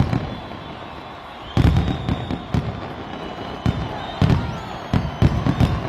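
Fireworks going off: a string of sharp bangs and deep booms, some singly and some in quick clusters, with thin whistling tones over them.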